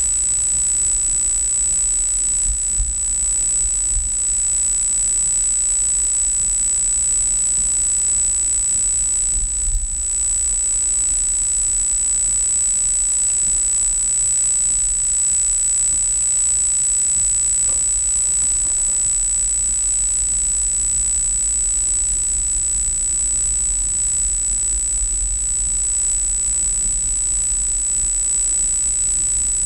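Steady noise of a car driving through a typhoon's heavy rain and wind, heard from inside the car through a dashcam microphone, with a low rumble underneath. A steady high-pitched whine sits over it.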